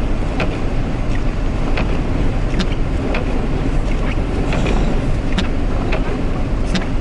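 Semi-truck cab interior while driving through snow: a steady low rumble of engine and road noise, with sharp clicks or ticks every half second to a second.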